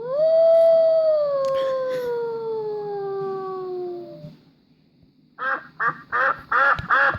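A canine howling: one long howl that slowly falls in pitch over about four seconds. About a second after it ends come five short, quick calls, about two and a half a second.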